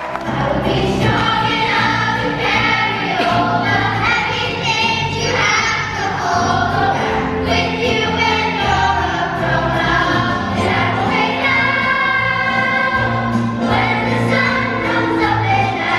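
A group of performers singing a song together, with sustained melody notes over an instrumental accompaniment with a steady bass line.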